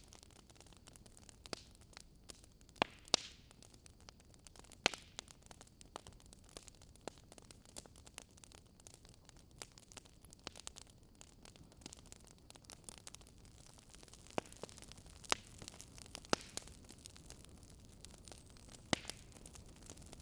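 Wood fire crackling: irregular sharp pops and snaps over a low, steady hiss.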